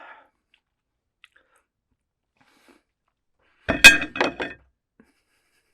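Close-miked crunching of raw vegetables being chewed: about four quick, loud crunches in under a second, near the end.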